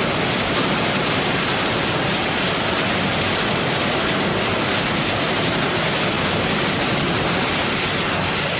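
Hammer mill scrap-metal shredding line running: a loud, steady wash of dense noise.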